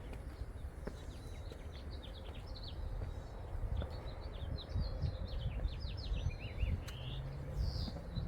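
Small birds chirping outdoors: a flurry of quick, high, down-slurred chirps that thins out near the end, over a steady low rumble.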